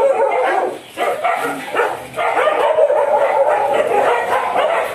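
Several dogs yipping and whining, many high wavering cries overlapping with short dips about one and two seconds in.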